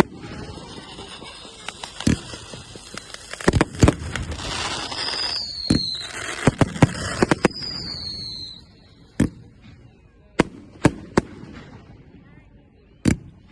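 Fireworks display: repeated sharp bangs of bursting shells, with a dense spell of crackling in the middle and a couple of falling whistles. It grows quieter after about eight seconds, with only scattered single bangs.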